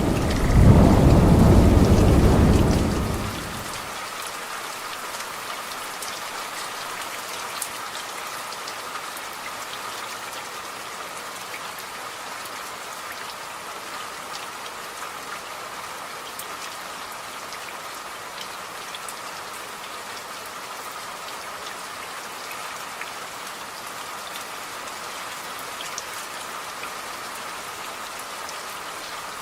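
Thunder rumbling deep and loud, dying away about three seconds in, then steady rain with individual drops ticking.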